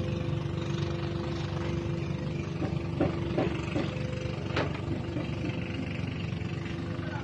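A motor running steadily with a low rumble and a constant hum, and a few short sharp clicks about halfway through.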